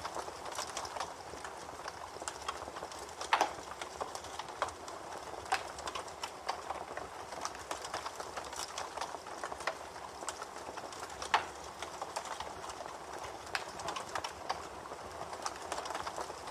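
Campfire crackling: a steady hiss of burning with irregular pops and snaps, two louder pops standing out, one a few seconds in and one about two-thirds of the way through.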